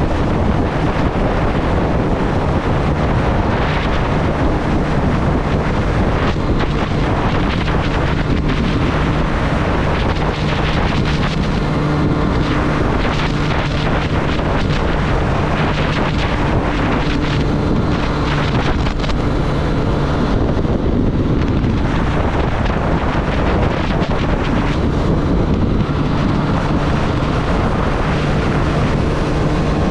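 Triumph Street Triple's inline three-cylinder engine running at a fairly steady pitch under way, with wind rushing over the microphone.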